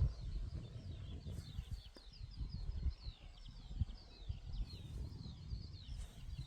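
Birds singing a continuous string of quick, short, descending chirps, with an uneven low rumble underneath.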